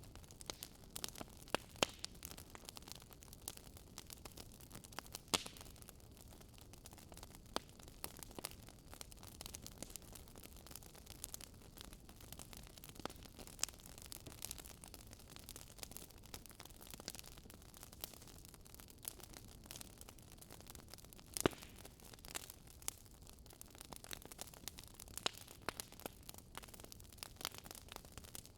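Fireplace fire crackling: a faint, steady hiss with many sharp, irregular pops and snaps, one louder snap about three-quarters of the way through.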